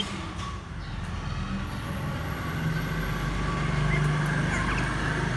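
Steady low mechanical hum, like a running motor or engine, with a faint short chirp about four and a half seconds in.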